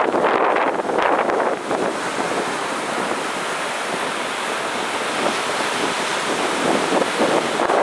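Heavy sea surf breaking and washing up the beach: a continuous rushing hiss, with stronger surges in the first couple of seconds that settle into a steadier wash.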